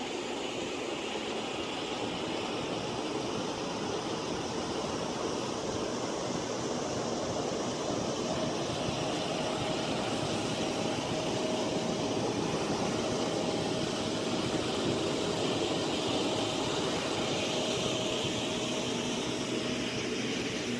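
Vehicle engine running steadily: a broad, even drone, with a faint steady whine joining about eight seconds in.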